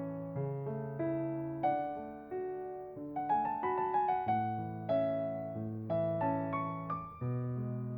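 Background piano music: a slow melody over sustained chords, each note struck and then fading.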